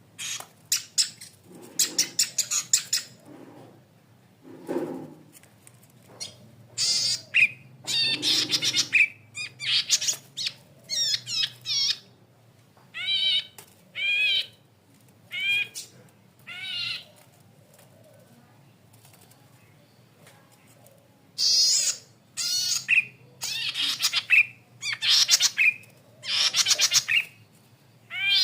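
Red-headed cisticola ('cici padi kepala merah') singing. Bursts of rapid, buzzy ticking notes alternate with short arched whistled notes, with short pauses between phrases.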